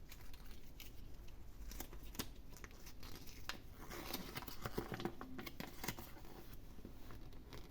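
Surprise-egg wrapping and packaging being handled and opened by hand: crinkling and tearing with scattered small clicks, busiest from about four to six seconds in.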